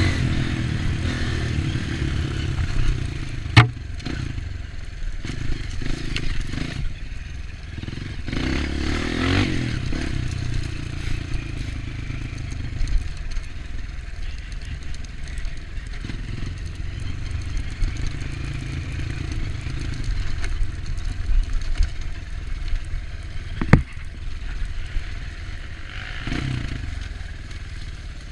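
Off-road trail motorcycle engine running under a rider, the revs rising and falling, with rattle from the bike over rough ground. Two sharp knocks stand out, one a few seconds in and one near the end.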